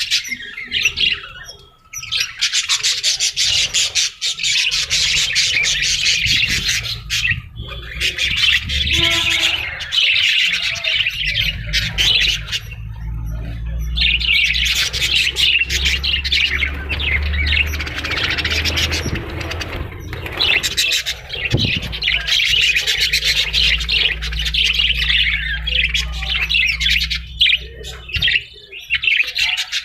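Parrots chattering, with rapid high-pitched chirps and squawks going on almost without pause and a few brief breaks.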